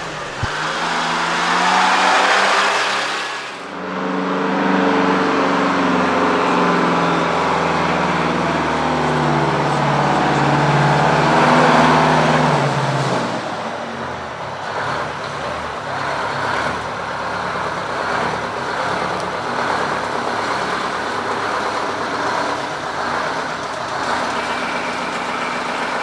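Diesel semi-truck engines running. A hissing rush lasts for the first few seconds. From about four seconds in, a pitched engine drone plays and cuts off around the middle, and a rough, pulsing engine rumble follows.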